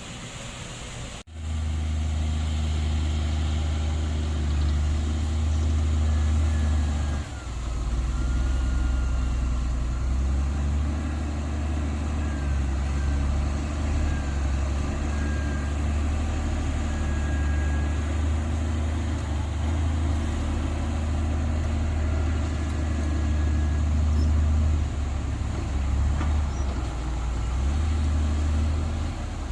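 Heavy diesel engine of earthmoving equipment running steadily with a deep drone. It starts abruptly about a second in and dips briefly around seven seconds before carrying on.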